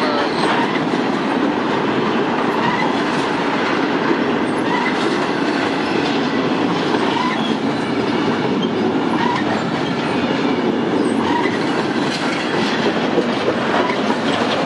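Double-stack intermodal container well cars of a freight train rolling past at a grade crossing: a steady rumble and clatter of steel wheels on the rails.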